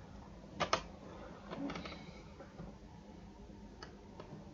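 A few soft clicks over a low steady hum, the sharpest about two-thirds of a second in and a couple of weaker ones about a second later.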